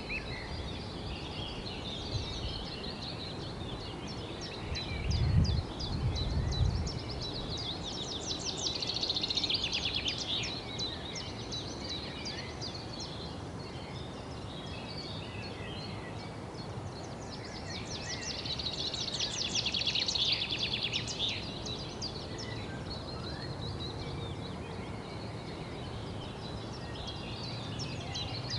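Small songbirds chirping in bouts of rapid, high trills, louder twice in the middle, over a steady outdoor background hiss. A brief low rumble comes about five seconds in.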